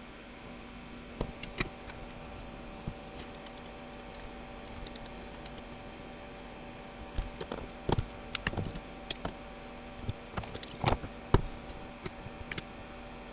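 Scattered light clicks and taps of tools and small plastic parts being handled while a hair dryer is being rewired, over a steady electrical hum. The clicks are sparse at first and come thicker in the second half.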